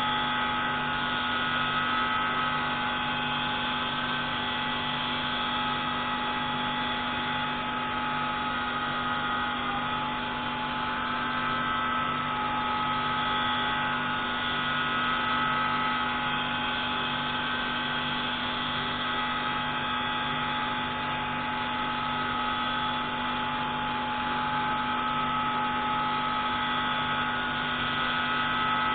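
Pneumatic grinding tool running steadily while grinding a marine engine's intake valve: a continuous whine over a low hum, with a brief dip in pitch about ten seconds in.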